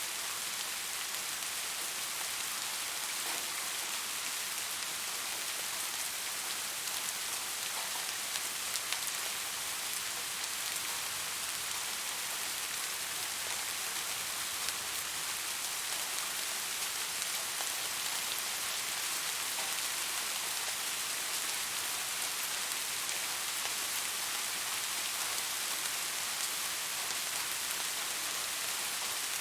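Steady rain falling: an even hiss of many small drops pattering on a surface.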